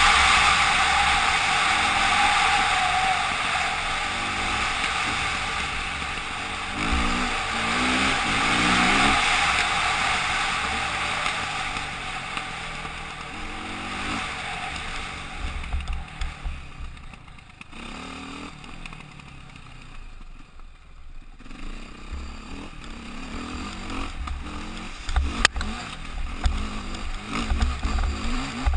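KTM motorcycle engine running under way, with wind rushing over the microphone. The engine pitch rises in short sweeps several times, it goes quieter for a few seconds past the middle, then picks up again. A sharp click comes about 25 seconds in.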